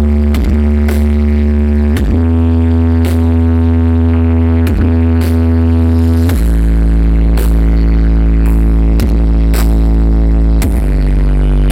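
Loud electronic dance music pumped through a huge truck-mounted 'sound horeg' carnival sound system, dominated by deep held bass notes that swoop down in pitch several times, over sharp beats.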